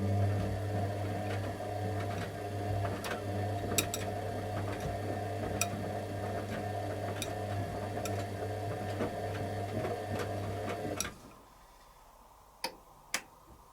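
Candy Aquamatic 100F washing machine tumbling its drum during the heating stage of the wash: a steady motor hum with light irregular ticking, which stops suddenly about eleven seconds in. Two sharp clicks follow near the end.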